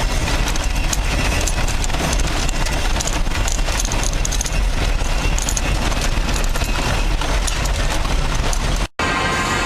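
A 1995 GMC Suburban driving fast on loose gravel: a steady low road rumble with a dense, rapid clatter of gravel against the tyres and underbody. Near the end it cuts off abruptly and music begins.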